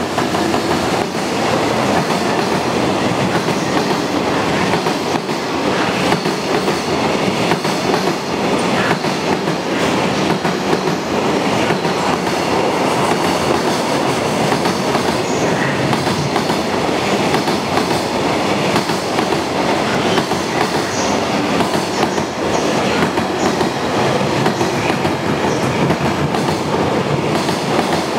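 Freight train passing through at speed: a steady loud rumble of wheels on rail, with quick clacks as the wheels cross rail joints.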